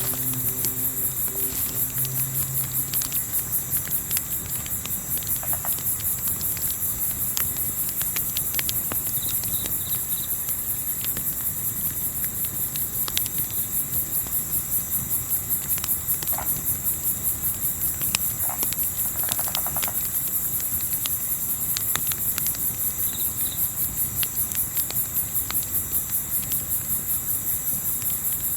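Crickets chirping in a steady, even pulse, with scattered sharp crackles from a campfire.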